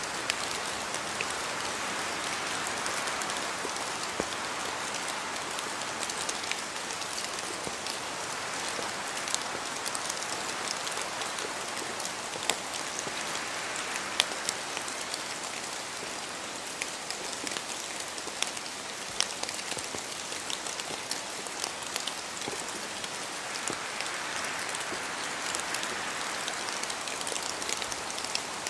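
Steady rain falling in a forest, with scattered louder drops landing close by. The hiss swells and eases slowly about every ten seconds, like wind gusts moving through the trees.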